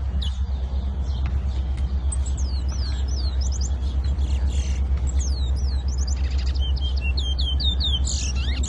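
A bird singing in quick chirps and short whistles that glide up and down, coming thicker toward the end, over a steady low hum.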